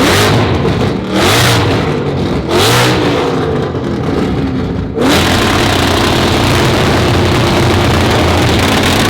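Loud car engine revved in three quick blips, then about five seconds in jumping to high revs and holding there steadily for several seconds.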